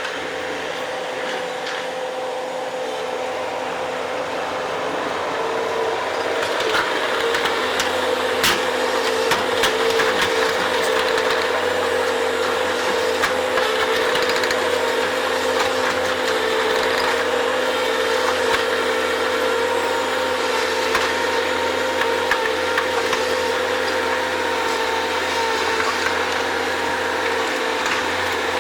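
Bobcat skid steer running steadily with a held whine, growing a little louder after about six seconds, with a few sharp knocks, the clearest about eight seconds in.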